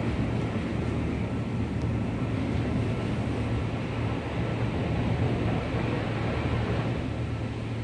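Automatic car wash equipment running: a steady rushing noise over a low hum.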